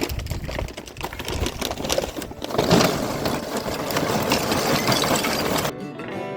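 A small motor running with a fast rattling clatter, louder from about two and a half seconds in. It cuts off suddenly near the end as acoustic guitar music begins.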